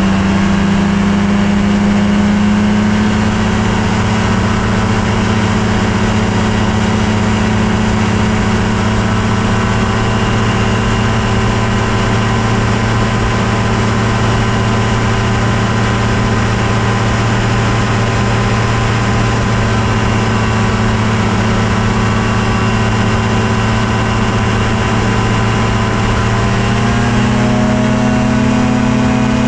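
Ultralight airplane engine and propeller running steadily in flight, loud and close. The pitch dips slightly about three seconds in and rises near the end as the throttle is opened a little.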